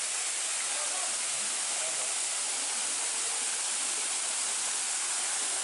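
Waterfall pouring and splashing, a steady, dense hiss of falling water close to the microphone.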